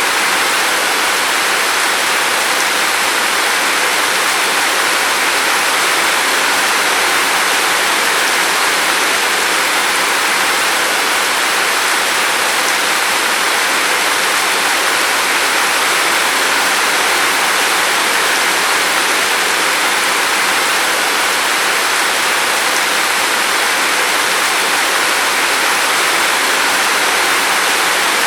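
Steady rain falling: an even, unbroken rushing hiss with no separate drops or changes.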